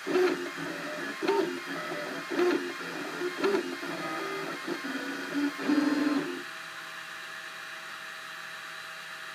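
Cubify 3D printer's stepper motors whining at shifting pitches as the print head moves, in a pattern that repeats about once a second. About six seconds in it settles to a quieter, steady hum.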